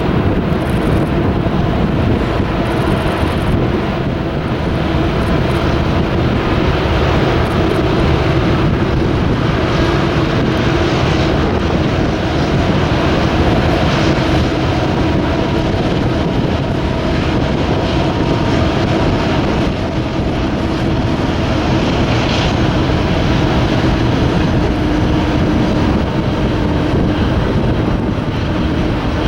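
Freight train rolling past: a steady loud rumble and rail noise with a constant hum, and wind buffeting the microphone.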